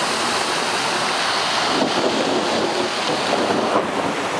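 Heavy rain with water rushing down a flooded street, a steady loud hiss of falling and running water.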